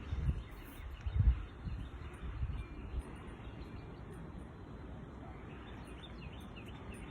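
Wind buffeting the microphone in several gusts over the first few seconds, the strongest about a second in, with faint bird chirps throughout.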